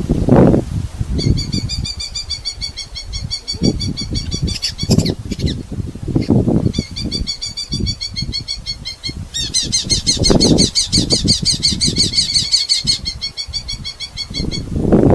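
Red-footed falcons calling in rapid, chattering runs of repeated high notes, densest and loudest for a few seconds past the middle. Under the calls are irregular low thumps and rustling.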